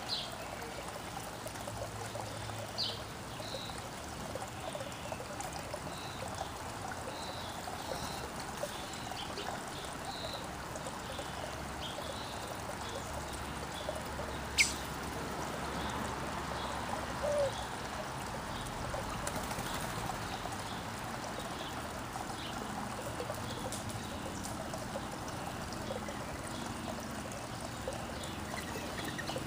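Steady trickle of running water, with small birds chirping faintly every second or so. There is one sharp, very brief high-pitched sound about halfway through.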